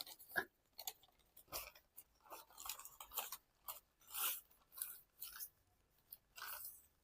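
A sheet of origami paper being unfolded and handled: faint, irregular rustles and crinkles in short bursts with brief pauses between them.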